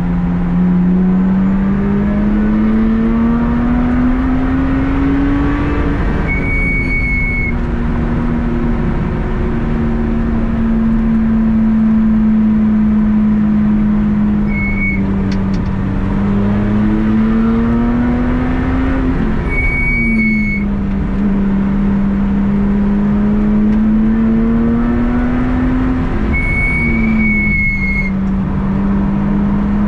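Car engine heard onboard during a fast track lap, running hard over road and wind noise. Its pitch climbs and drops several times as the car speeds up and slows through the corners. A brief high-pitched tone comes in four times.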